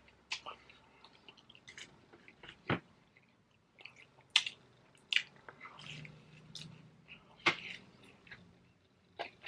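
Close-miked chewing of cheesy pepperoni pizza: wet mouth clicks and lip smacks coming at irregular moments, with a short low hummed murmur about six seconds in.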